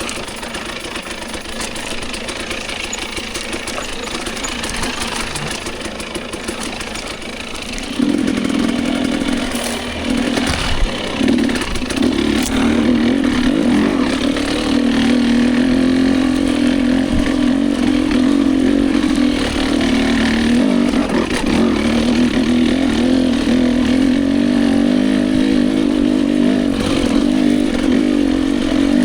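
Dirt bike engine running while being ridden. About eight seconds in it gets louder and settles into a steady, higher-load note that holds to the end.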